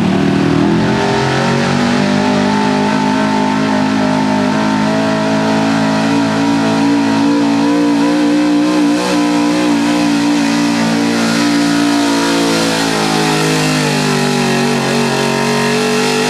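Modified 4x4 pulling truck's engine at full throttle during a pull. It revs up in the first second and holds high, steady revs, with the pitch sagging a little in the last few seconds.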